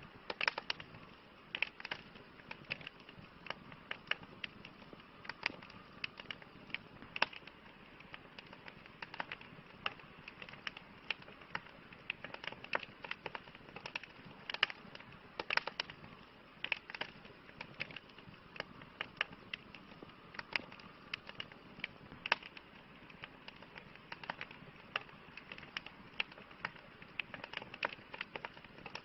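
Wood fire crackling: many irregular sharp pops and snaps, several a second, over a steady soft hiss of burning.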